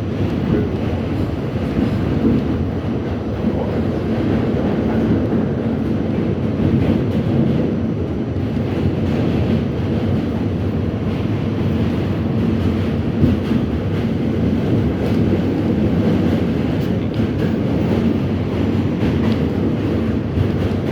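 R68 subway train running along the track: a steady, loud rumble of wheels and car body, with scattered light clicks and one sharper knock about thirteen seconds in.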